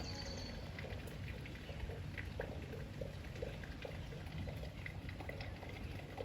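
Rain falling, with scattered drops pattering and dripping irregularly over a steady low rumble.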